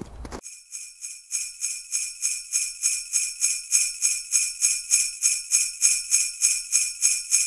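Jingle bells shaken in a steady rhythm, about four shakes a second. They come in faintly and grow loud after about a second.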